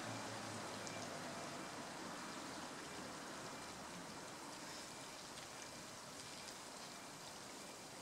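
Steady rush of flowing stream water. A low hum fades out within the first second or two.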